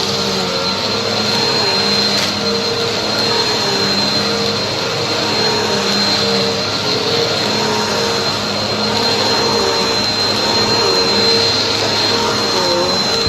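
Vacuum cleaner running steadily over a rug, with a constant high motor whine and a lower hum that drops out and returns every second or two.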